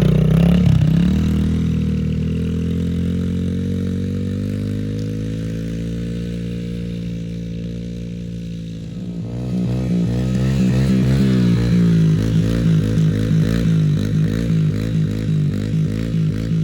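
Yamaha TT-R110 dirt bike's small single-cylinder four-stroke engine running under a rider: its note slowly falls and grows quieter over the first nine seconds, then gets louder and wavers up and down in pitch in quick pulses as the throttle is worked on and off.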